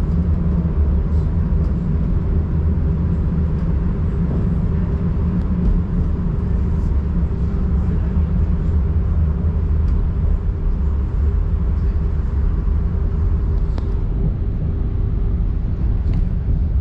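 Passenger train running on the line, heard on board: a steady low rumble of the running gear with a constant hum over it and faint scattered ticks.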